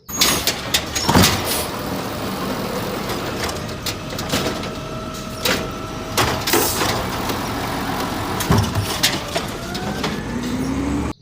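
Garbage truck running, with repeated knocks and clatter over a steady engine noise; a whine rises near the end. The sound cuts in and out abruptly.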